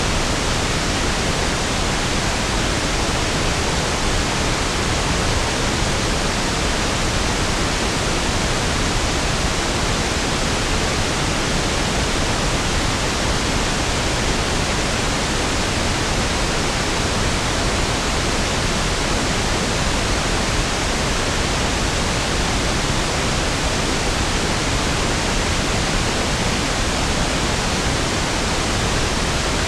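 Steady pink noise (1/f noise), an even hiss with equal energy per octave, unchanging throughout.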